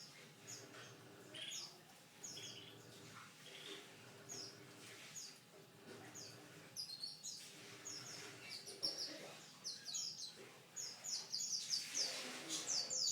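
Domestic canary singing: a string of short, high chirps, spaced out at first and coming faster and louder in a rapid run over the last couple of seconds.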